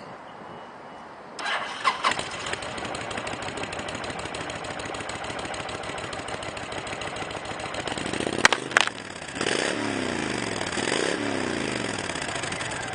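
The liquid-cooled 1300 V-twin of a 2009 Honda VTX1300C cruiser starting about a second and a half in, then idling steadily. Near the two-thirds mark come two sharp knocks, after which the engine is blipped twice, revs rising and falling.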